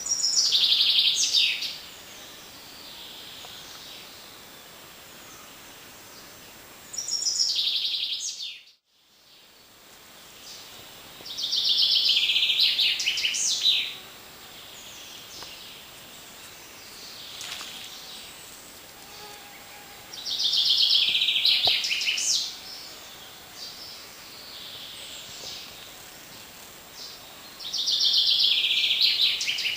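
A songbird repeats the same short, high, trilling phrase about every eight seconds, five times in all, over the steady rushing murmur of a forest brook. The sound cuts out completely for about a second after the second phrase.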